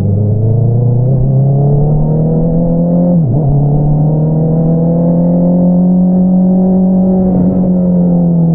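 Honda CBR650R's inline-four engine running through an Akrapovič single-outlet exhaust, climbing in pitch under acceleration. About three seconds in the note dips sharply for a moment, as in a gear change, then rises slowly again and eases off a little near the end.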